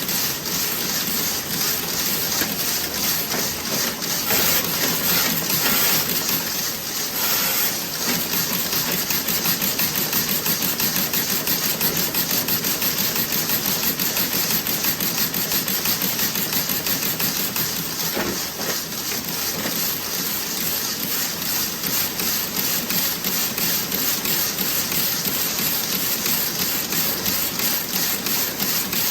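Toe-sock knitting machine running, a dense, fast, steady mechanical clatter of needles and cams, with a couple of brief louder hissing swells about four to eight seconds in.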